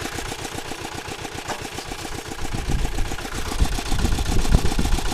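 Kentavr walk-behind tractor's single-cylinder engine idling with a rapid, even chug, a little louder around four seconds in.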